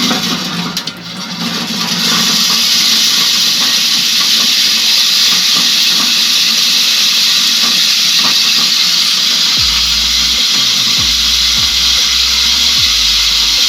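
Homemade electric corn sheller running with a steady, loud hissing rush, the noise of kernels being stripped and thrown inside the drum, which swells up about two seconds in. Background music with a low bass beat comes in near the end.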